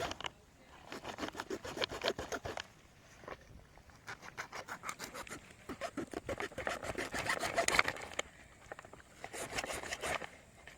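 A blade sawing back and forth through the slippery, jelly-like flesh of a stinging catfish (theli) to cut it into small pieces, in several bursts of quick rhythmic strokes with short pauses between; the fish is hard to cut.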